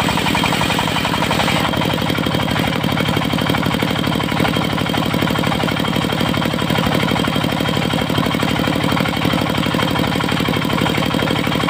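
Diesel engine driving a portable circular sawmill, running steadily with a fast even chug. A higher hiss above it stops about two seconds in, leaving the engine alone.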